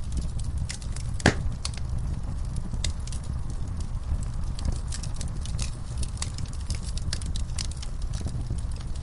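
Wood fire burning in a fireplace: a steady low rumble of flames with irregular crackles and pops, one louder pop just over a second in.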